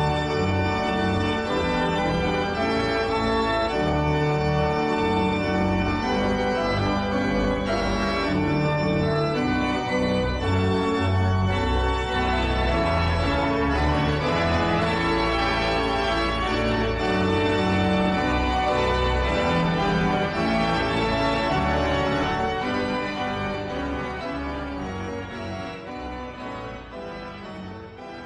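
Organ music: sustained chords and melody notes, fading out over the last several seconds.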